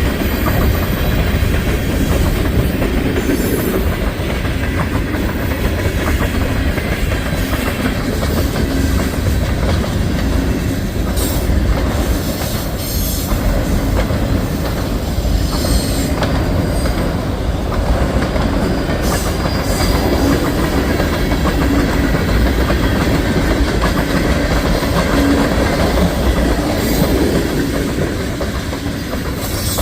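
Freight cars of a mixed manifest train rolling past: a steady rumble of steel wheels with clickety-clack over the rail joints and brief wheel squeals now and then.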